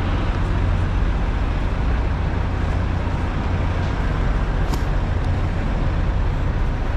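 Truck engine running, a steady low rumble, with a faint click a little past the middle.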